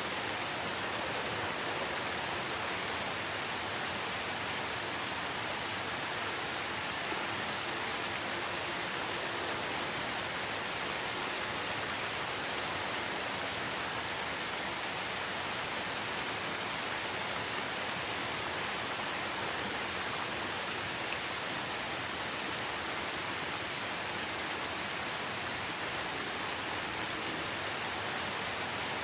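Steady rain falling, an even hiss with many small drops pattering.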